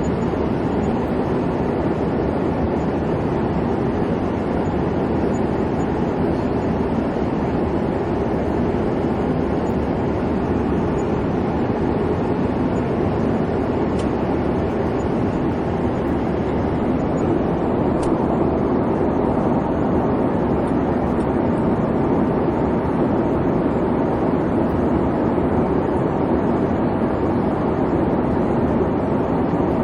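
Steady airliner cabin noise: an even low rumble of the engines and rushing air, unchanging throughout.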